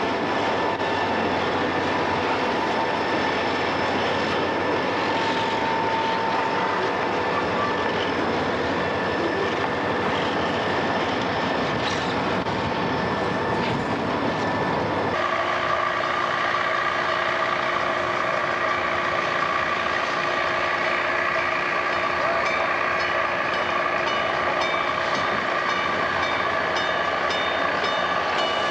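Diesel freight locomotives running past with the train rolling on the rails. About halfway the sound changes abruptly to a steadier engine drone with held tones.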